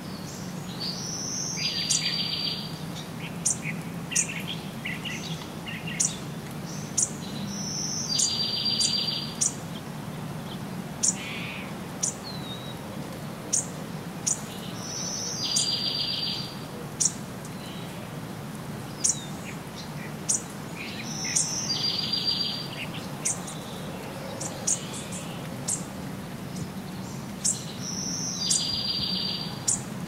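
Songbirds singing: one bird repeats the same short song about every six and a half seconds, a high note followed by a fast trill, while sharp single chirps sound in between. A steady low hum runs underneath.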